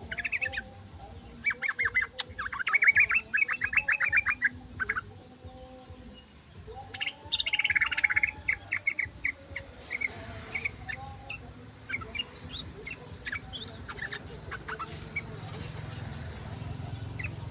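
Yellow-vented bulbul (trucukan) song: bursts of rapid chattering notes, the longest in the first five seconds and again about seven to nine seconds in, then scattered short notes.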